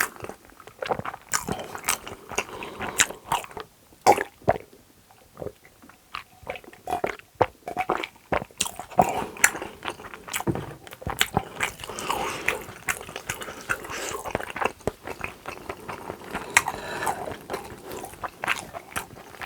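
Close-miked chewing and biting of food, with many sharp wet clicks and mouth sounds and a short quieter stretch about four to six seconds in.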